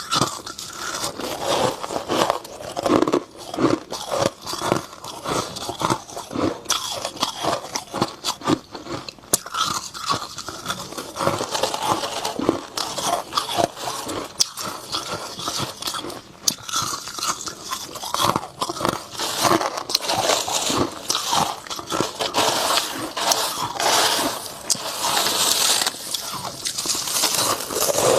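Close-up crunching and chewing of dry freezer frost, one bite after another with no pauses.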